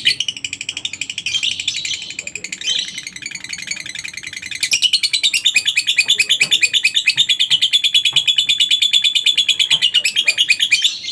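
Lovebird singing the long ngekek: a fast, unbroken chatter of high, shrill chirps repeated many times a second, carrying on for about eleven seconds before stopping near the end.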